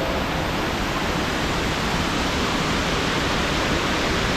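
Waterfall rushing close by, a loud, steady wash of falling water.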